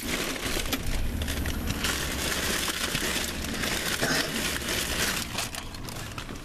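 Chip bag crinkling and rustling as it is handled, a dense run of irregular crackles.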